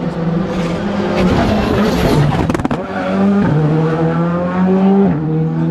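Rally car engine running hard under load, its note stepping in pitch as the gears change, twice in the second half. A cluster of sharp cracks comes about two seconds in.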